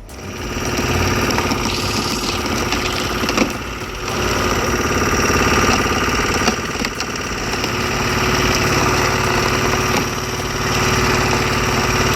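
Engine of a hydraulic log splitter running steadily, its note dipping briefly about four seconds in and again near ten seconds.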